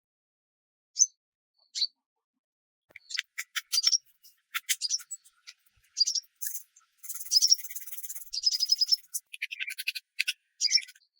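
Songbirds chirping: a couple of single high chirps, then from about three seconds in a busy run of rapid high notes and trills.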